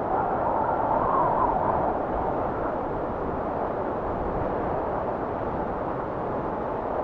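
Blizzard wind blowing in a steady rush, with a gust swelling in the first couple of seconds and then easing back.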